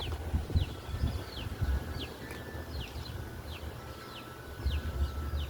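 Short high chirps, each falling quickly in pitch, repeat about twice a second from a calling animal outdoors at night, over an uneven low rumble.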